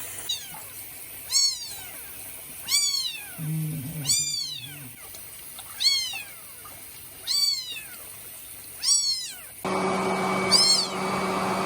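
A kitten meowing over and over, short high calls that rise and fall in pitch, about one every second and a half. Near the end a steady hissing hum starts under the calls.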